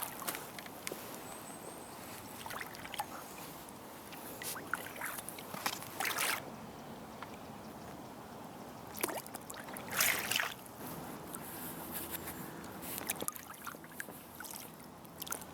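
Paddle strokes splashing and dripping as an inflatable boat is paddled along a river, irregular strokes with a few louder splashes over a steady wash of moving water.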